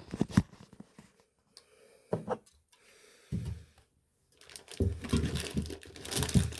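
Rustling and crinkling handling noises with a few dull bumps, in short bursts and then a longer crackly stretch near the end.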